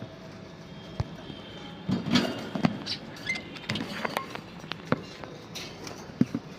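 Budgerigars moving about a cage, with scattered sharp clicks and scuffs and a few short chirps.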